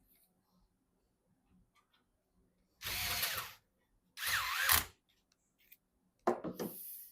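A small power tool's motor running in two short bursts of under a second each, its pitch wavering, then a shorter third burst near the end.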